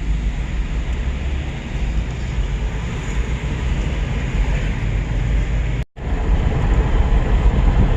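Steady low road and engine rumble heard from inside a moving vehicle, with the sound cutting out completely for a moment about six seconds in.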